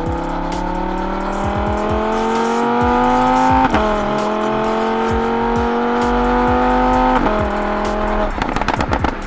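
Lamborghini Huracán LP610-4's 5.2-litre V10 accelerating under load. Its pitch climbs steadily, then drops sharply at upshifts about a third and again two-thirds of the way through. Music with a regular beat plays underneath.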